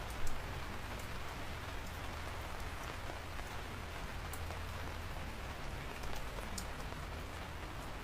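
Steady rain falling, an even hiss with scattered sharp drop hits, and one louder hit just after the start.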